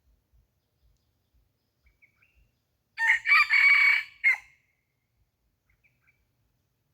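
A red junglefowl rooster crowing once, about three seconds in: a crow of about a second and a half that ends in a short clipped final note. Faint small-bird chirps come before and after it.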